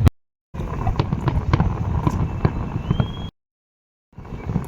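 Fireworks display: rapid bangs and crackling over a low rumble, with a short rising whistle about three seconds in. The sound cuts to dead silence twice.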